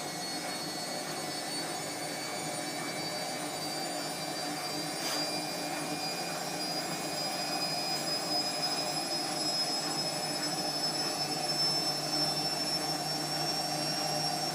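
Bosch washing machine running in the last minute of its programme, most likely its final spin: a steady motor whine whose pitch climbs slowly and grows a little louder toward the end.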